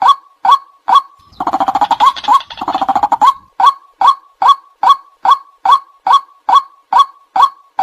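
White-breasted waterhen calling: a steady series of short, hooked 'kwak' notes about two and a half a second, broken about a second and a half in by some two seconds of rapid chattering. This is the species' call, used as a lure to draw waterhens in.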